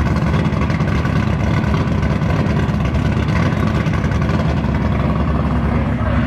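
LS V8 in a swapped Nissan 350Z idling steadily through a loud, raspy exhaust.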